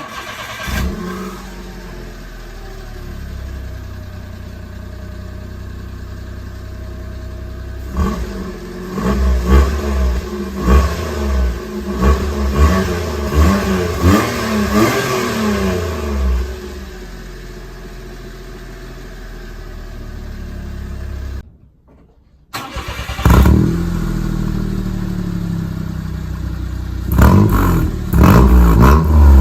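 Mitsubishi Minicab H42V's 660 cc three-cylinder engine heard at its exhaust: idling steadily, then revved in a string of quick blips that rise and fall. After a brief break, the exhaust is heard again idling and being revved, likely now through a different muffler.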